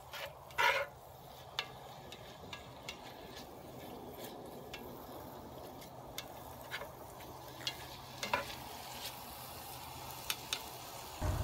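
Bacon, mushrooms and purple onions sizzling in a cast iron Dutch oven, stirred with a spatula that scrapes and clicks against the pot at irregular intervals.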